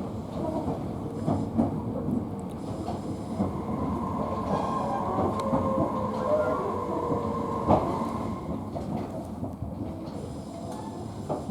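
Tobu Noda Line train running slowly, heard from inside the car: steady wheel-on-rail rumble with a few sharp clacks over rail joints, and a thin wheel squeal in the middle. The train is easing off speed as it comes in toward the station.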